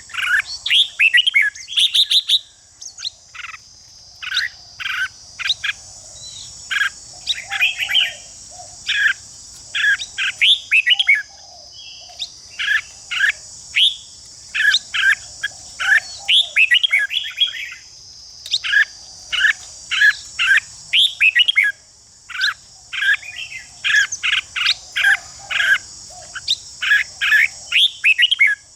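Red-whiskered bulbul song: short, quick whistled phrases repeated over and over with brief gaps, in the competitive singing that keepers train for. A steady high insect drone runs behind it.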